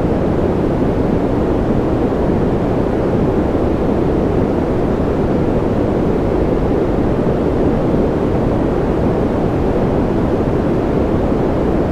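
Steady, unchanging white-noise hiss, deep and dark in tone with most of its weight low and little top end, with no rise, fall or breaks.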